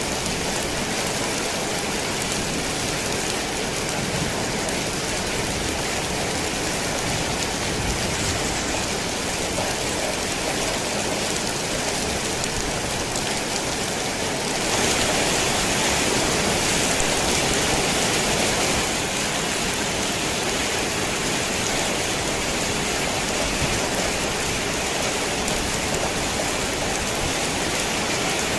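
Heavy rain drumming steadily on a tin roof, turning heavier for a few seconds about halfway through.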